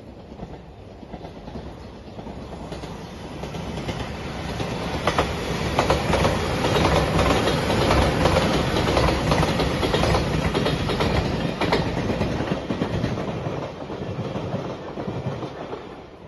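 Shiokaze limited express electric train in Anpanman livery, a JR Shikoku 8000 series, passing at speed on rails. It builds over the first few seconds, runs loudest in the middle with wheels clacking over rail joints, then fades away near the end.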